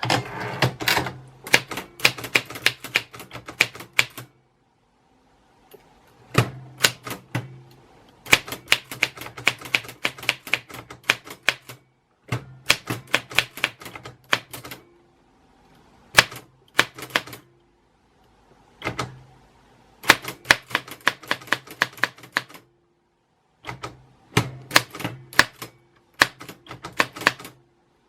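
Typewriter keys striking in quick runs of sharp clacks, several a second, in bursts of a few seconds with short pauses between.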